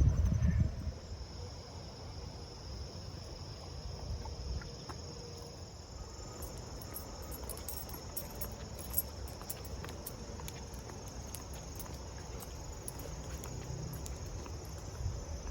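Field insects trilling steadily, a continuous high-pitched buzz. Wind buffets the microphone with a low rumble in the first second and again at the very end.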